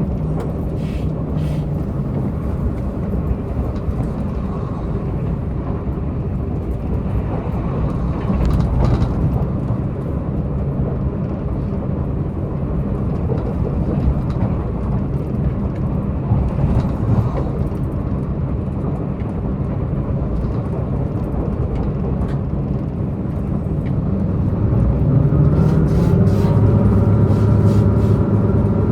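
Diesel multiple-unit Tze-Chiang express train at speed, heard from inside the car: a steady rumble of wheels and running gear with the diesel engine underneath. About 25 seconds in it gets louder and a steady engine hum comes through, with a few sharp clicks scattered through.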